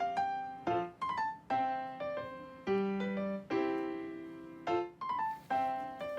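Background music: a light piano tune of single struck notes, each ringing and fading before the next.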